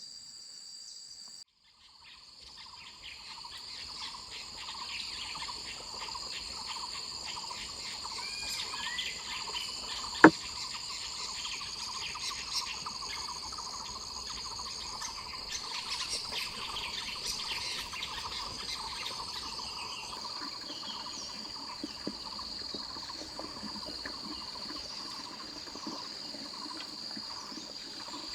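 Crickets and other insects chirring steadily, with a few short bird chirps and one sharp knock about ten seconds in.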